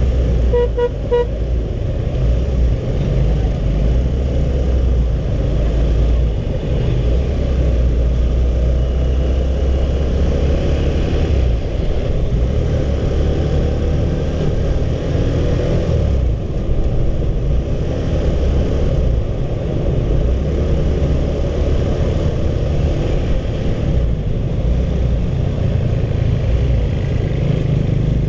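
Honda CB150R single-cylinder motorcycle underway in traffic: steady engine and riding noise with a heavy low rumble. A vehicle horn toots a few times in quick succession about a second in.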